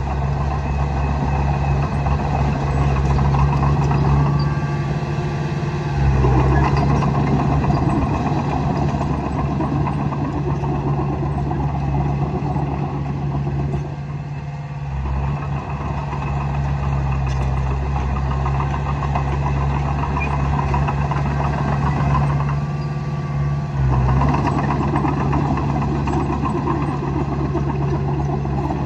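Diesel engine of a Komatsu D20A bulldozer running steadily. Its note dips and picks up again three times as the machine works.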